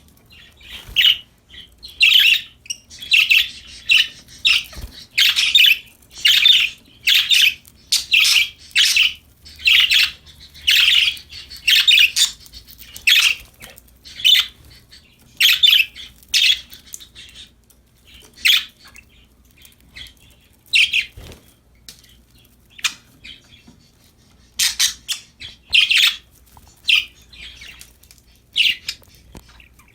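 Budgerigars (pet parakeets) chirping in a run of short, high calls. The calls come thick and fast at first, then grow sparser, with gaps of a second or more, over the second half.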